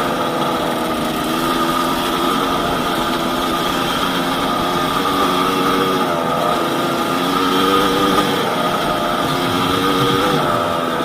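Yamaha DT200WR's single-cylinder two-stroke engine running under way, its revs rising and falling over and over with the throttle.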